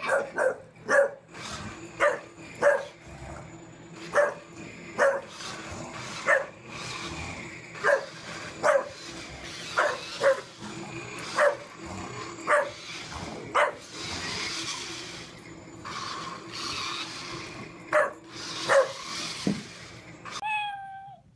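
A dog barking over and over, short sharp barks about once a second with a pause of a few seconds near the middle. Right at the end a cat meows.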